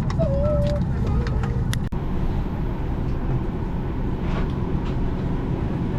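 Steady low rumble of a Boeing 737 MAX 8 cabin while the jet rolls on the ground after landing. A faint warbling tune is heard in the first second or so, and a single sharp click comes about two seconds in.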